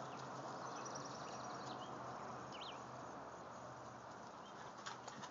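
Quiet background with faint, high bird chirps in the first couple of seconds and a short up-and-down bird call a little past the middle.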